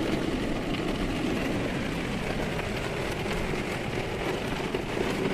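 A car driving along, with steady road and engine noise heard from inside the cabin.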